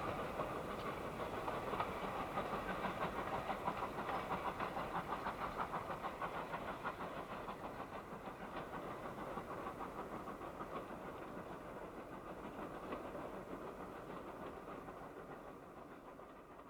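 Steam train running with a steady rhythmic beat of about three strokes a second, fading away as it moves off into the distance.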